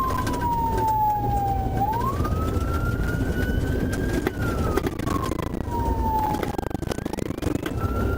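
Police patrol car siren sounding a slow wail, its pitch falling, rising and falling again over several seconds, over steady road and engine noise during a high-speed pursuit.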